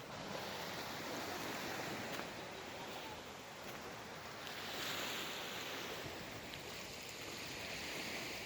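Sea surf: waves washing ashore in a steady rush that swells and eases, a little louder about five seconds in.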